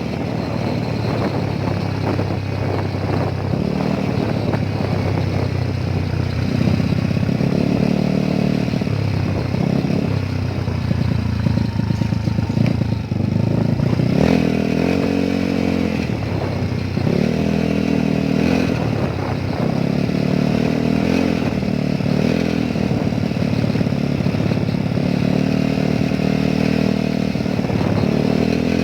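Motorcycle engine running on the move, its pitch repeatedly rising and falling with the throttle over a steady rush of road and wind noise.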